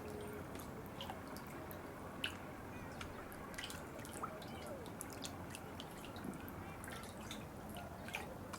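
Water dripping and trickling: many irregular, sharp drops and small plinks over a steady low rush of flowing water.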